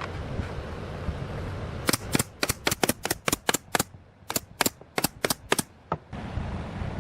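A quick, uneven run of about fifteen sharp knocks over some four seconds, with a steady noise before and after.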